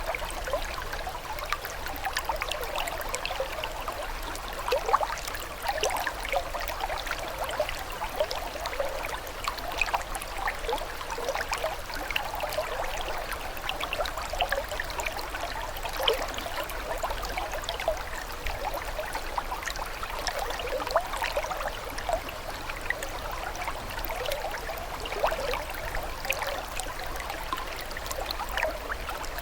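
Running water babbling steadily: a dense, unbroken run of quick little splashes and gurgles, light and bright, without a deep rumble.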